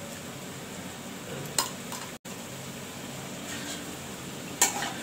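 Besan-batter pakoras frying in hot oil in a steel wok, a steady sizzle, with two sharp clinks of metal utensils against steel vessels, about a second and a half in and near the end.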